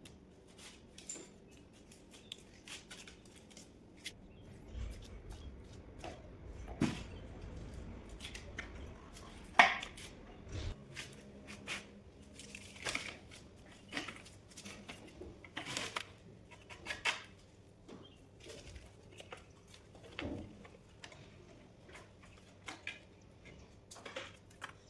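Irregular clicks, taps and light metallic clinks of hand tools and metal parts being handled, with a low hum from about five to eleven seconds in.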